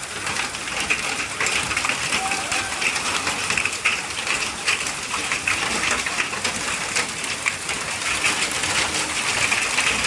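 Hailstones pelting down in a heavy hailstorm, a dense, steady patter of sharp ticks and clicks over the hiss of falling rain and hail.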